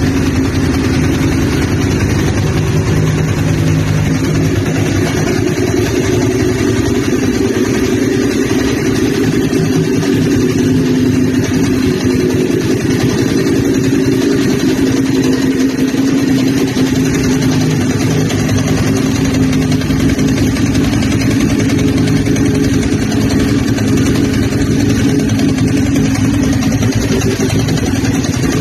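Ducati 999 L-twin motorcycle engine idling steadily.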